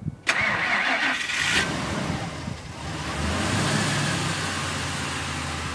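Ford F-150 truck with dual exhaust cold-started at −15 °C: the starter cranks for about a second, the engine catches, sags and almost stalls about two and a half seconds in, then picks up and settles into a steady idle.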